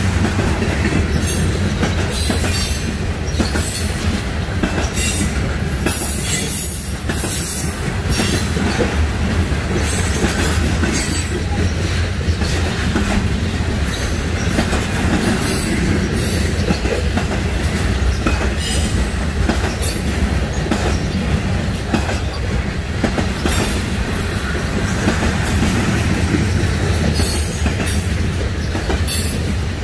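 Freight train cars rolling past on the mainline, a steady rumble and clatter of wheels on rail, with brief high wheel squeals now and then.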